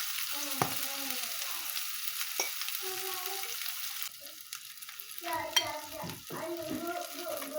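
Food frying in hot oil in a pan, sizzling, with a utensil stirring and scraping against the pan. The sizzle drops off sharply about halfway through, leaving scrapes, squeaks and a sharp clink of the utensil.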